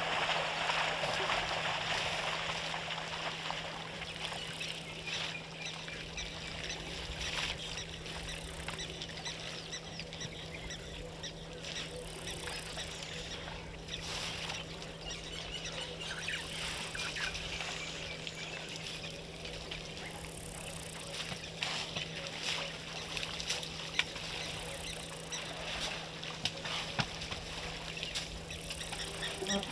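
Waterhole ambience: scattered short bird calls over a steady low hum, with a hiss of splashing water that fades over the first few seconds.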